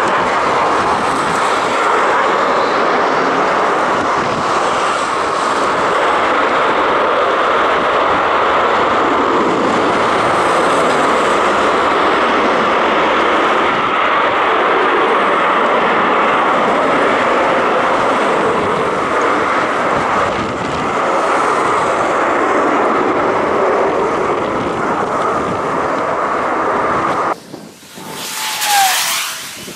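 Military jet aircraft engines running loud and steady. Near the end the sound cuts off abruptly, and a second jet is heard swelling up and fading away with a short falling whine.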